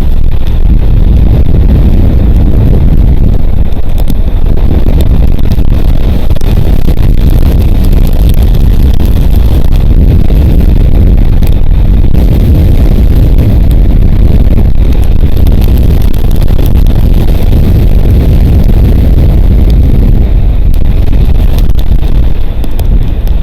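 Strong wind buffeting the nest camera's outdoor microphone: a loud, continuous low rumble.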